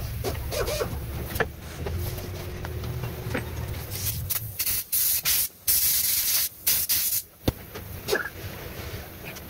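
Several short bursts of loud hissing spray, between about four and seven seconds in, over a low steady hum that fades about halfway through.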